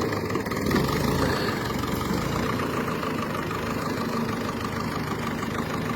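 Grey Ferguson (TE20 "grey Fergie") tractor engine running steadily under load while it drags a heavy tree stump, the front wheels lifted off the ground.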